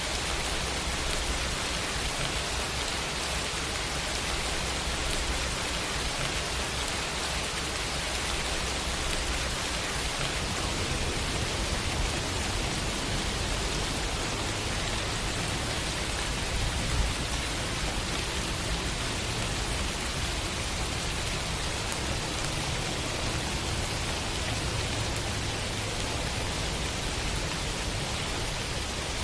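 Steady, heavy rain falling as an even hiss, with a low rumble underneath and one brief louder spike about two thirds of the way through.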